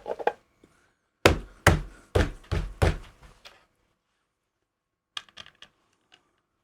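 Hard knocks and thunks from a 4:1 balun box and its parts being handled on a bench: about five sharp knocks over a couple of seconds, then a few light clicks near the end.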